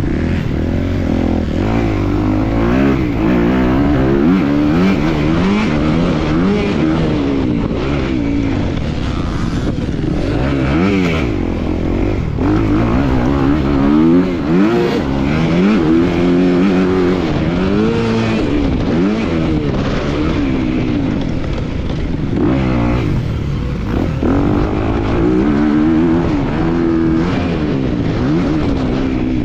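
250-class motocross bike engine revving hard and falling back over and over, its pitch climbing and dropping every second or two as the throttle opens and closes and the gears change, under steady wind and track noise.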